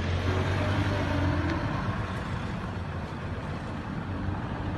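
Road vehicle engine running with a steady low hum over traffic noise, a little louder in the first two seconds.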